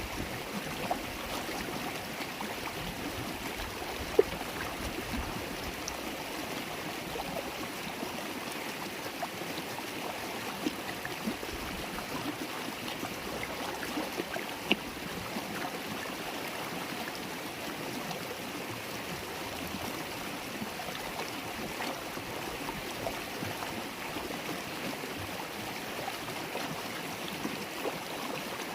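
River water flowing and babbling steadily over its bed, with a few brief sharper splashes, the loudest about four seconds in.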